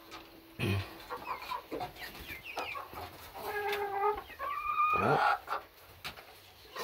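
Chickens clucking and calling: a string of short chirps, then a couple of longer held calls and a falling call near the end.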